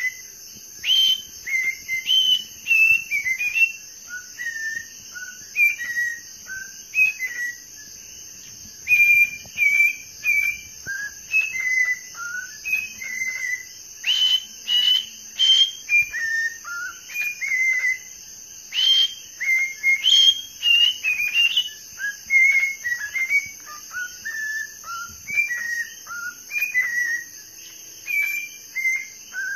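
A bird chirping and whistling in a rapid run of short whistled notes, several a second, most of them falling in pitch. A steady high-pitched whine runs underneath.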